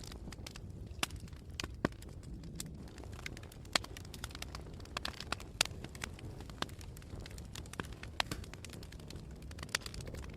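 Campfire burning, with irregular sharp crackles and a few louder pops over a steady low rumble.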